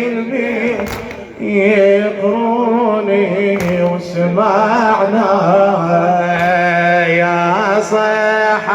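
A man chanting a Shia religious lament poem in long, drawn-out melismatic notes with a wavering pitch, taking a brief breath about a second and a half in.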